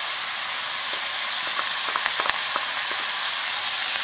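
Chopped tomatoes, green chillies and garlic sizzling steadily in hot oil in a wok as fresh fenugreek leaves are tipped in, with a few light clicks about halfway through.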